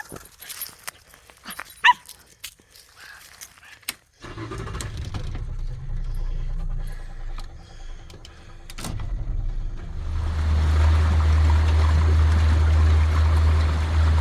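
A beagle gives a short bay about two seconds in, among light clicks and rustles. About four seconds in the sound cuts abruptly to a boat under way: a low rumble, then from about ten seconds a steady low motor hum over water noise, the loudest part.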